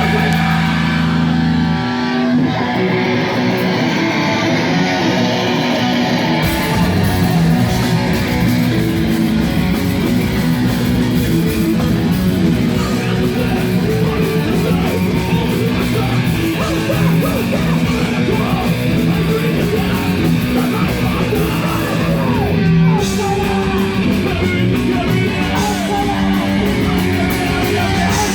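Heavy rock band playing loud and live: distorted electric guitars, with the drums and full band coming in about six seconds in.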